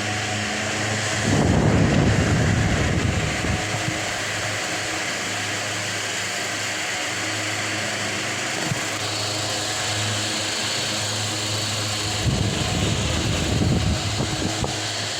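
Delta Gold electric fan running: a steady motor hum under the rush of moving air. Twice, about a second in and again near the end, it turns louder and rougher with a low rumble for a couple of seconds, as the airflow buffets the microphone.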